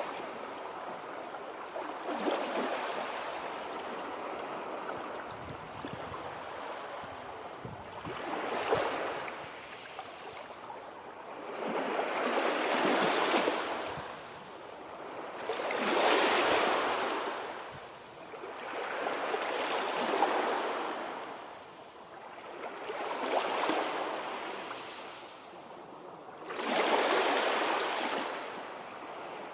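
Sea waves washing onto a shore, each surge swelling and ebbing in turn, about one every three to four seconds.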